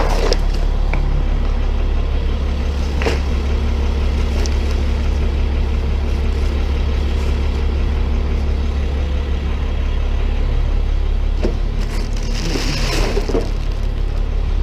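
Tow truck engine idling steadily, with a couple of sharp knocks and a brief scraping clatter near the end.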